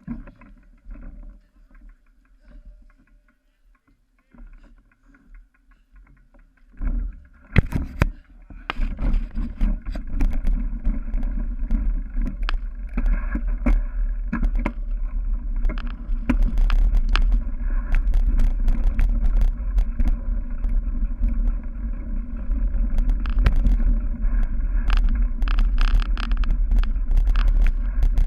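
Bicycle ridden over a rough dirt and grass cyclocross course, with rattling, knocking and wind rumble on the on-board camera's microphone. It is quieter with scattered knocks at first, then becomes a steady loud rumble full of rattles from about eight seconds in.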